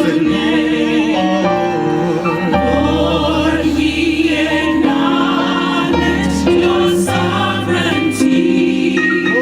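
African-American gospel choir singing a slow praise song, the voices held and wavering over instrumental backing, with a low bass line that changes note every second or two.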